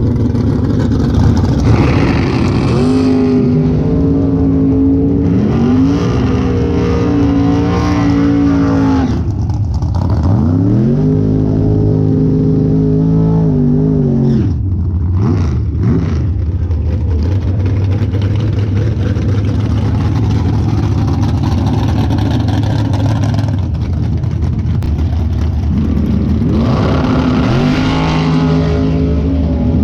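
Drag-racing car engines accelerating hard, the pitch climbing and dropping at gear changes several times, with stretches of steady running in between.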